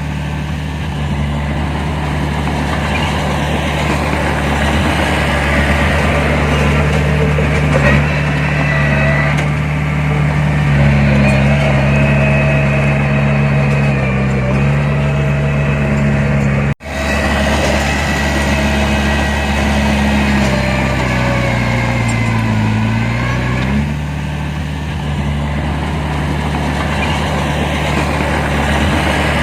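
Heavy diesel engine of earthmoving machinery running under load, rising in revs about a third of the way in and settling back down near the end, with a momentary break in the sound a little past halfway.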